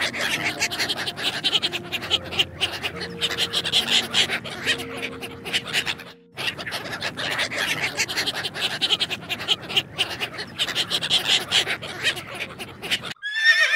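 A flock of ducks calling: dense, rapid, overlapping chattering calls, with a brief break about six seconds in.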